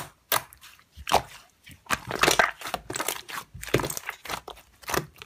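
Slime being squished and worked by hand, giving an irregular run of wet crackles, clicks and pops.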